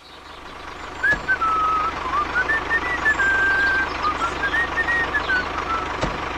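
Tractor engine running steadily, with a thin whistle that wavers up and down over it from about a second in until near the end.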